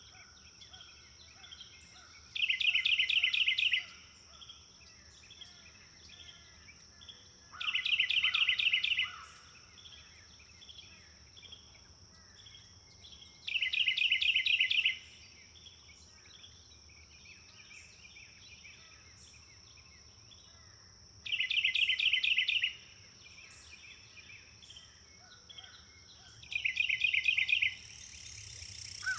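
A songbird repeating a short, rapid trilled phrase five times, several seconds apart, with fainter chirps of other birds between. A steady high insect-like hum runs underneath.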